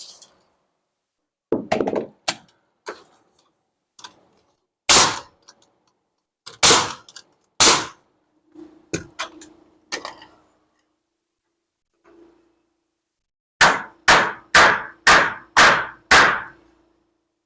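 Hammer blows on wood framing: scattered knocks, then a run of six quick strikes near the end, about two a second, with a ringing note under them.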